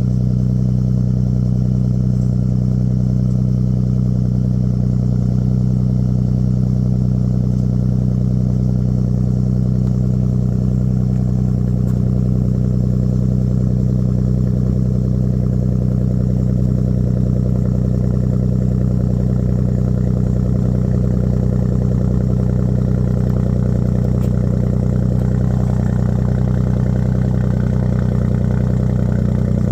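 Ford 3.5 EcoBoost twin-turbo V6 idling steadily through an AWE 0FG exhaust with a 3-inch Borla resonator, still warming up after a cold start.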